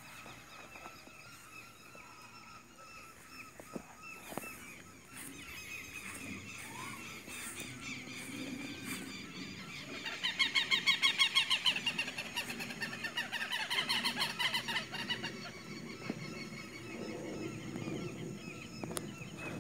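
Birds calling outdoors, with a loud run of rapid, evenly repeated calls lasting about five seconds in the middle. A faint steady high tone runs underneath.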